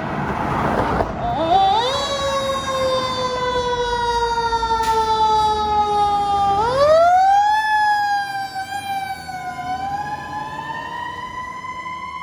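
Fire engine siren wailing on a response run. After a rush of noise in the first second, the siren's tone climbs, slides slowly down, sweeps back up about six and a half seconds in, and rises again near ten seconds.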